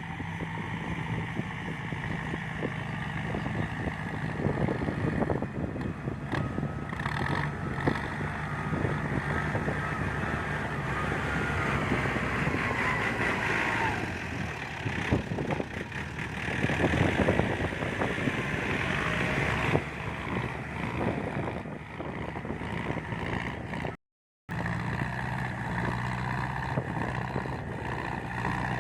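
Tractor engine running steadily under load while tilling a rice field, with a short dropout about 24 seconds in.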